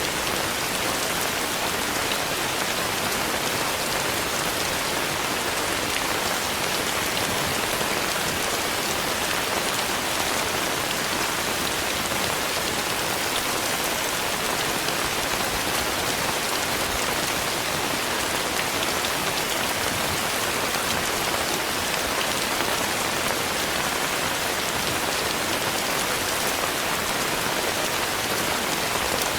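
Steady rain falling, an even hiss of drops that keeps on without let-up.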